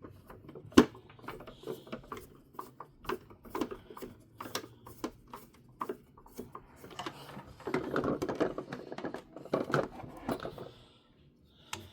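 Small screwdriver driving tiny screws into a plastic toy car body, with a run of light clicks and taps from the driver and the plastic being handled. One sharper click comes about a second in, and the clicking is busier near the end.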